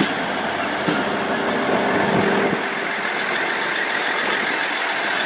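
Diesel multiple-unit train engines idling steadily.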